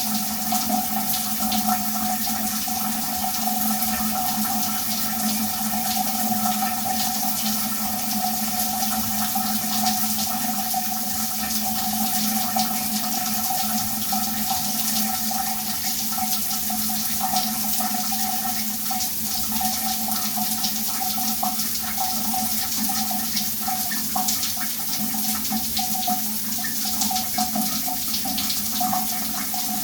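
Shower running steadily, water spraying and splashing, with a steady hollow ring in the sound.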